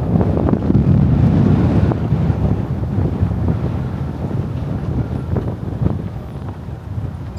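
Wind buffeting the microphone: a loud low rumble that is strongest in the first two seconds and eases off after.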